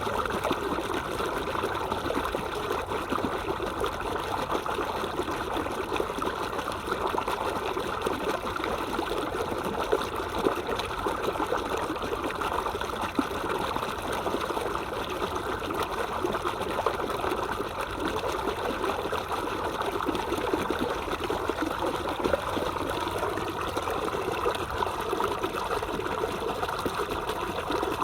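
Stream water trickling and babbling steadily over stones, an even rushing sound without pauses.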